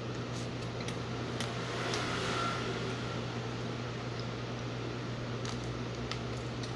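A steady mechanical hum with an even airy hiss, like a room fan running, with a few faint clicks over it.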